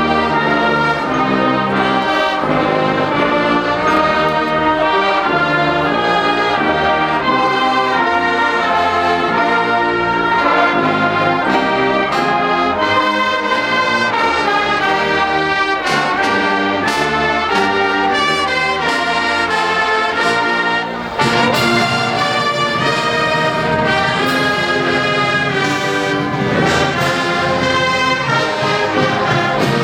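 Marching band playing loud, with a full brass section of trombones and trumpets over a steady drum beat.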